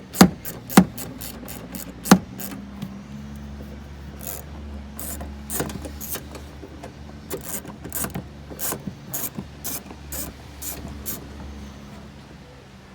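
Irregular sharp clicks and taps of hand tools tightening bolts on a truck, a ratchet wrench among them, loudest in the first couple of seconds and then sparser. A low steady hum runs underneath.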